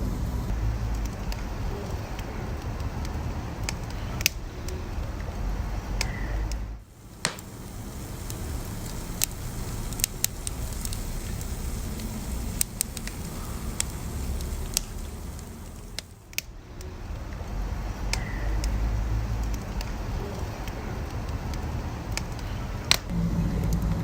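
Wood fire burning, crackling with scattered sharp pops over a steady low rumble of the flames; the sound briefly dips twice.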